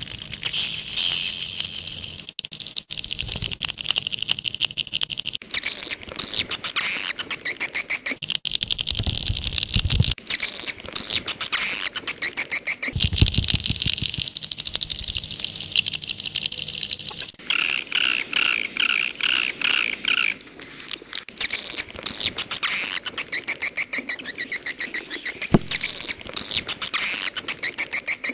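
Swiftlet calls of the 'jaguar' type, the lure sound played to draw swiftlets to nest houses: dense, rapid high chirping and twittering, with a low rumble twice in the middle.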